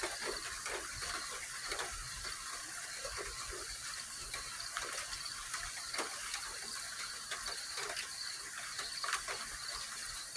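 Steady high, pulsing chirring of night insects, with scattered irregular light ticks and taps, like drops, throughout.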